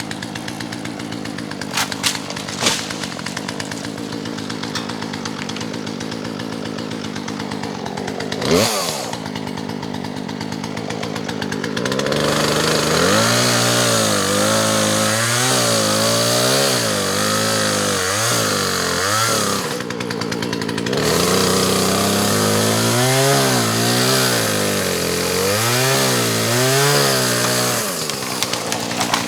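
Poulan Pro PR4218 two-stroke gas chainsaw idling, with one quick blip of the throttle, then run at full throttle through two cuts. Its pitch dips and recovers again and again as the chain bogs in the wood, and it drops briefly back to idle between the cuts.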